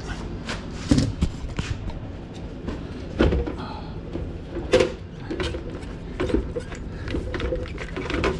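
Hard plastic knocks and clunks from an Aprilaire steam humidifier's canister being worked loose and handled: several separate sharp knocks over a low steady background.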